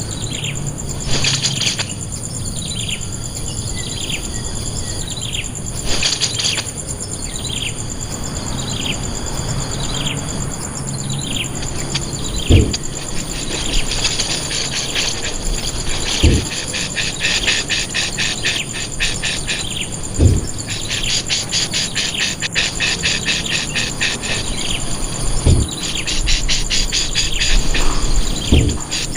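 Wild birds calling: a series of short downward chirps repeated about once a second, giving way after about twelve seconds to a fast, dense chattering, over a steady high-pitched insect drone. A few dull low thumps stand out now and then.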